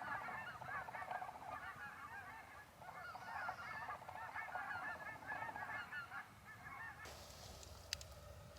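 A flock of geese honking, many overlapping calls at once, fairly faint. The calls stop about seven seconds in, giving way to a few sharp clicks.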